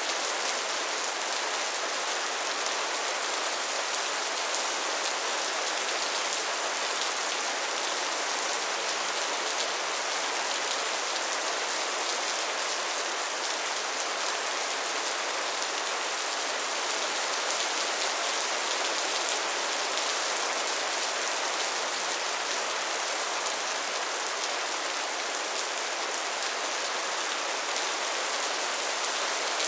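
Steady soft rain: a dense, even patter of raindrops on a surface, unchanging throughout.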